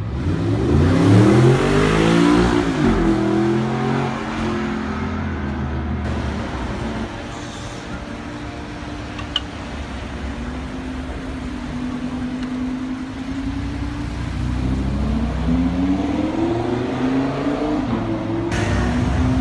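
High-performance car engines revving and accelerating. The engine pitch climbs sharply over the first couple of seconds, settles into a steadier low engine note through the middle, and rises again in a second rev near the end.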